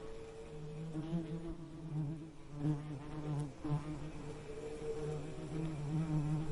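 Bee buzzing: a low hum that wavers slightly in pitch and swells and fades in loudness.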